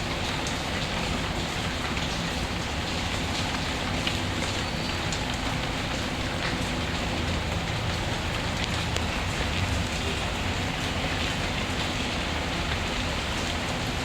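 Steady rain falling, with scattered faint crackles of a wood fire mixed in.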